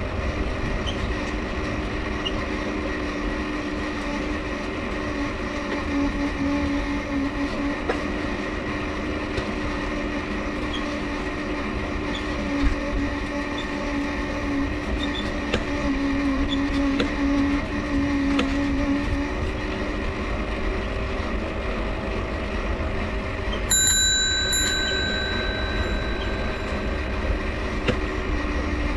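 Mifa folding bicycle being ridden: its dynamo hums steadily while the crank gives faint scattered squeaks and clicks. About three-quarters of the way through, a high ringing tone starts suddenly and lasts a second or two.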